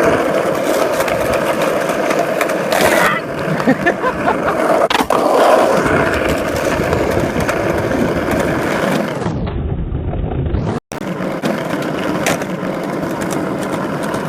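Skateboard wheels rolling on a concrete sidewalk, with sharp clacks of the board about three and five seconds in. The sound cuts out for an instant about eleven seconds in.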